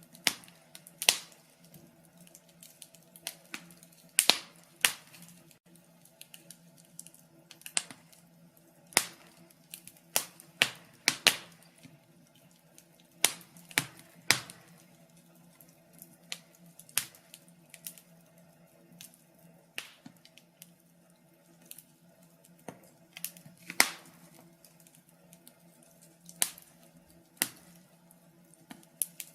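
Wood fire in a fireplace crackling, with irregular sharp pops and snaps of uneven loudness over a faint steady low hum.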